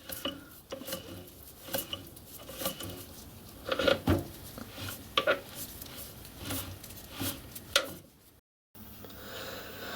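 Light, irregular metal clicks and clinks from the hand-moved chassis of a miniature steam locomotive with its coupling rods fitted. After a short break near the end comes a faint steady hum.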